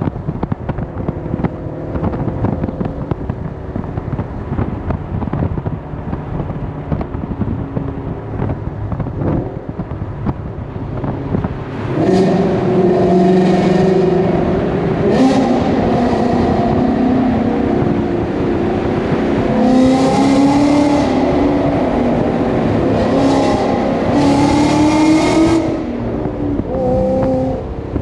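Ford Mustang GT's 5.0 L Coyote V8 exhaust in a tunnel, cruising for about twelve seconds, then opened up: the engine note gets much louder and climbs in pitch in several pulls with short breaks between, easing off near the end.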